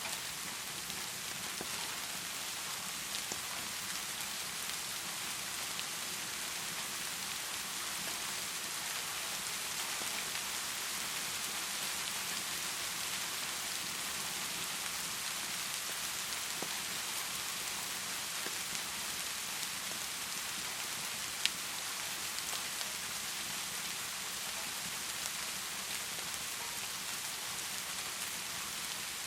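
Heavy rain falling steadily, an even hiss with no thunder. A single sharp click stands out about two-thirds of the way through.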